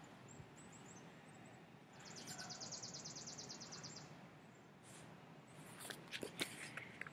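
Quiet outdoor background with a bird's dry, rapid, high trill lasting about two seconds, starting about two seconds in. Near the end come soft rustles and taps from a picture book's pages being handled.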